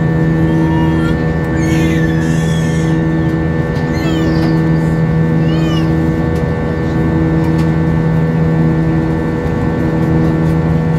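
Steady drone of an Airbus A320's engines and airflow heard inside the cabin in flight, with several steady humming tones. A few short, high squeaky sounds come over it around two to six seconds in.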